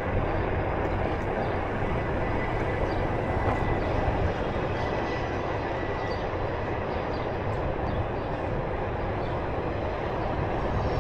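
Steady rumbling wind and rolling noise from riding a Onewheel electric board, with a faint high whine that fades out about two thirds of the way through.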